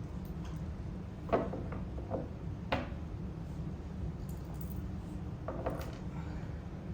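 A few scattered knocks and clatters of cart parts and hardware being handled during assembly, the sharpest about a second and a half in and near three seconds, over a steady low rumble.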